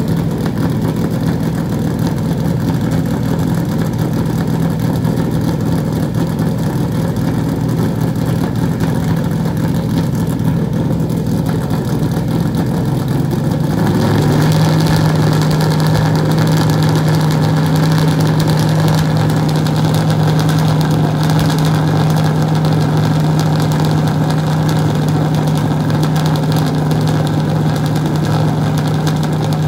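NASCAR race car V8 engine running steadily as it warms up. About halfway through, the engine speed steps up a little and holds at the higher speed.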